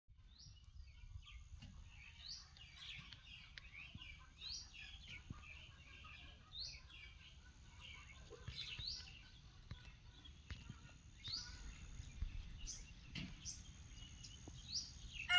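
Birds calling outdoors: a short rising call repeated about every two seconds among other chirps and twitters, over a faint low rumble, with a few faint ticks.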